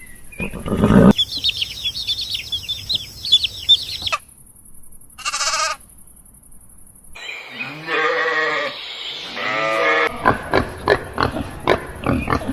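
A string of different animal calls in quick succession: rapid high chirps, a short call, long wavering calls from a livestock animal, then a run of sharp clicks.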